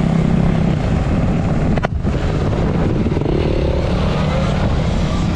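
Wind buffeting the microphone while riding, over a dirt bike engine running nearby; a rising pitch about three seconds in shows the engine revving up.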